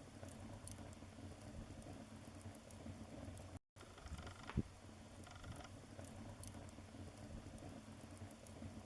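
Wood fire burning in a fireplace: a soft steady flame noise with scattered small crackles and one sharp pop about halfway through. A moment of complete silence comes just before the pop.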